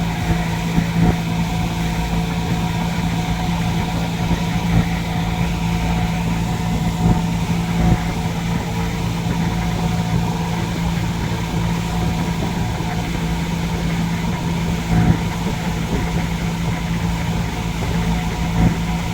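Boat engine running steadily under way, a constant low hum with a strong fixed pitch, broken by a few brief thumps.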